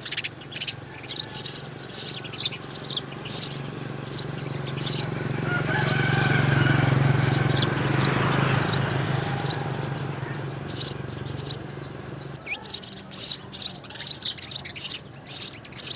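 House sparrows chirping in rapid short chirps that thin out in the middle and come thick and fast again near the end. Under the middle part a low hum swells up and fades away over several seconds.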